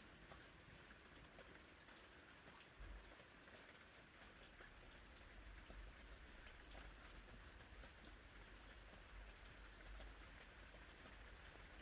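Faint steady rain, with scattered small drips ticking throughout. A low rumble sits underneath from about three seconds in.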